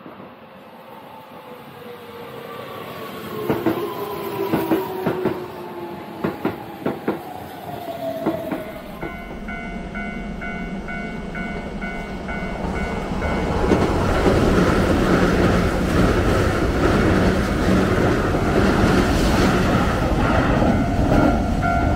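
A Keihan electric train passing at speed, with a whine falling in pitch as it goes by and its wheels clacking over rail joints. Then a level-crossing warning bell dings steadily while another Keihan train rumbles loudly through the crossing.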